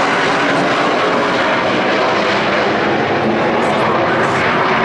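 Boeing 727 tri-jet's three jet engines making a loud, steady roar as the airliner flies its display.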